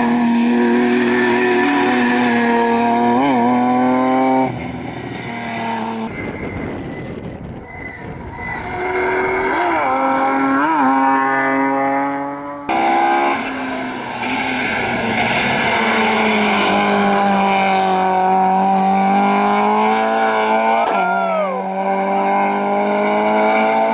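Rally car engines running hard at high revs, with quick throttle blips and gear changes. The sound jumps abruptly between cars a few times, with a stretch of rushing noise in the middle.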